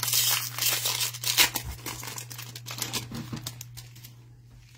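Foil trading-card pack wrappers crinkling and tearing as packs are opened and handled, with dense rustling that thins out near the end. A steady electrical hum sits under it.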